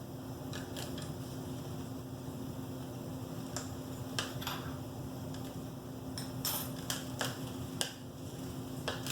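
Scattered light clinks and taps of a small metal feeding spoon during hand-feeding of baby cockatiels, over a steady electrical hum.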